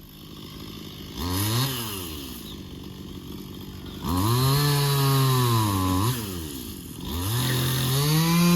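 Two-stroke chainsaw revved in three bursts: a short blip about a second in, then two longer full-throttle runs held for about two seconds each, dropping back to idle in between.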